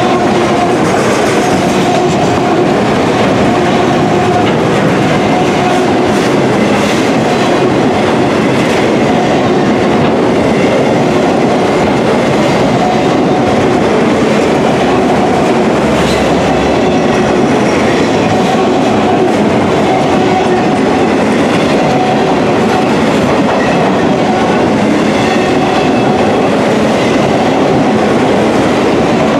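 Autorack freight cars rolling steadily past: a loud, continuous noise of steel wheels on the rails, with faint whining tones that come and go.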